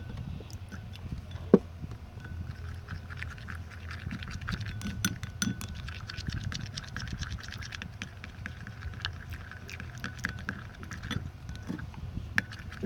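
Slime being stirred in a bowl as activator is mixed in: many small, irregular clicks and ticks, with one sharp knock about one and a half seconds in, over a steady low hum.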